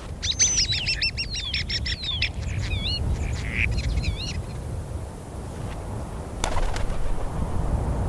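Birds chirping: a quick run of repeated high whistled notes, then a few wavering whistles, over a low steady rumble. A single sharp click comes near the end.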